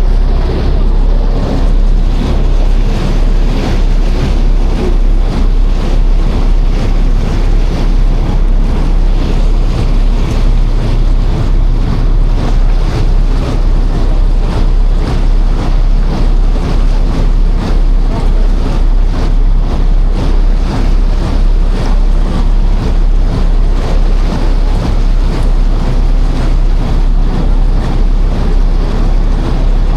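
Wind buffeting the microphone on a moving passenger ferry, loud and steady, over water rushing past the hull and the low hum of the ferry's engine.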